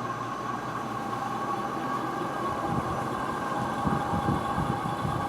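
SMC X-42 42-inch ceiling fan running on high: a steady hum with a whoosh of air from the blades. A low rumble comes in about halfway.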